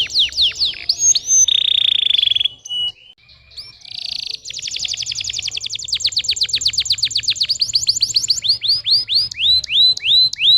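Domestic canary singing: rapid trills of repeated high notes and a brief buzzy phrase, then a short pause about three seconds in. The song resumes with a long fast trill that slows near the end into separate swooping notes.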